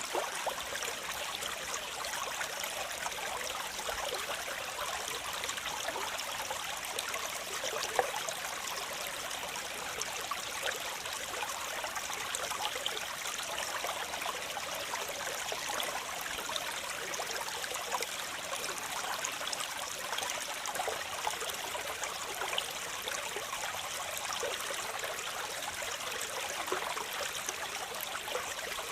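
Running water splashing and trickling in a steady, even rush, with many small splashes and little deep rumble.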